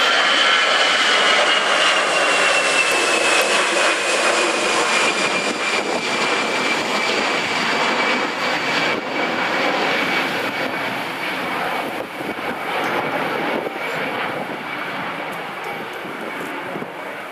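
Airbus A320 jet engines at takeoff thrust as the airliner climbs away: a broad engine rush with a high whine that slides slowly down in pitch, the whole gradually fading.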